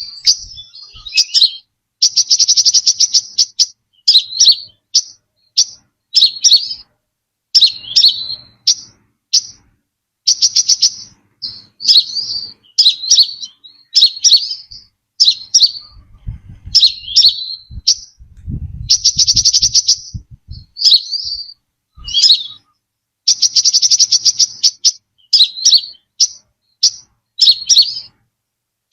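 Brown-throated sunbird calling: a steady run of short, sharp high notes that slide down in pitch, broken every few seconds by buzzy trills about a second long. A low rumble sounds under the calls about two-thirds of the way through.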